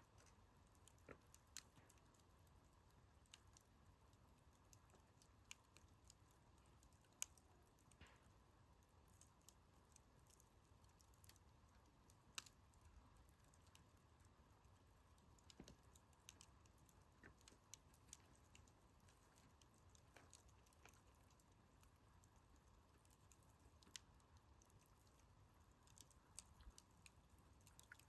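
Wood campfire crackling faintly, with sparse, irregular sharp pops and ticks from the burning firewood.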